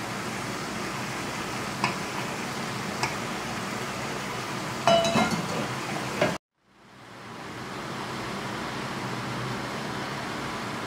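Steady hiss of chicken and vegetables frying in a wok, with a few utensil knocks and clinks against the pan. It cuts out suddenly about two-thirds of the way through, then fades back in.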